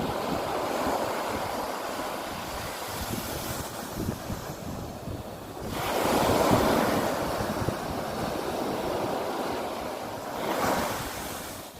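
Ocean surf washing up the beach in surges, the biggest about six seconds in and another near the end, with wind buffeting the microphone.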